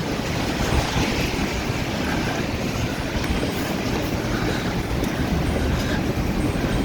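Steady city street noise on a wet day: traffic running on wet roads, with a constant low rumble.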